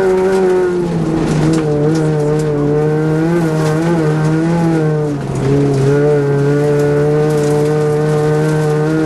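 Rally car engine at full stage pace, heard from inside the cabin. The revs drop about a second in, waver, dip again around five seconds in, then hold steady.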